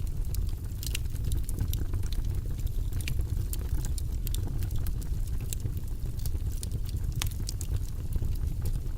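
Wood fire burning in a fireplace: a steady low rumble with frequent irregular crackles and small pops.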